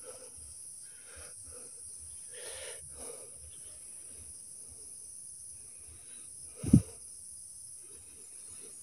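Steady high buzz of insects, with faint rustling and one dull thump about seven seconds in.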